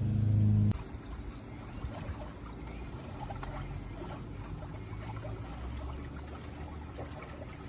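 A steady machine hum stops abruptly about a second in, leaving water trickling and lapping.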